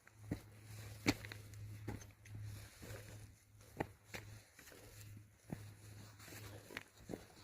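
Footsteps on a rough trail: faint, irregular scuffs and crunches about once a second, over a low steady hum.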